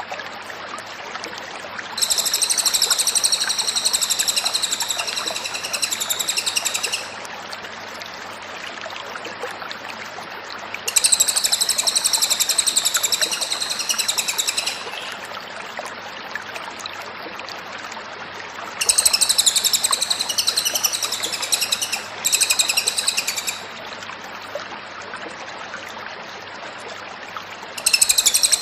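Cililin songbird singing in high-pitched bouts of rapid, repeated chattering notes, each lasting a few seconds, with pauses of about four seconds between them. A steady hiss and a low hum run underneath.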